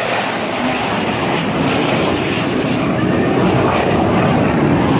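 Airplane flying past, a loud, steady rush of engine noise.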